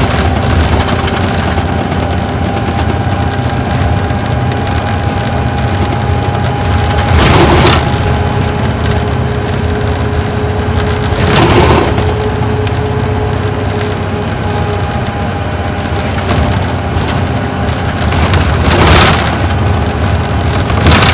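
Isuzu Gala coach's V-type diesel engine and drivetrain heard from inside the bus while under way: a steady low rumble with a thin steady whine above it. Three times, about 7, 11 and 19 seconds in, a brief louder rush of noise rises over it for under a second.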